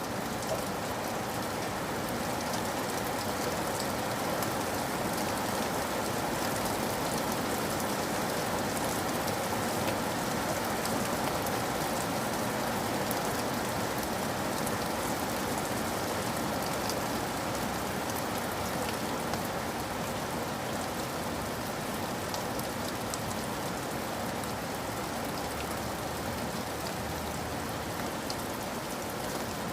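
Steady rain falling on a surface: a dense, even patter with fine individual drop ticks. A faint low rumble comes in near the end.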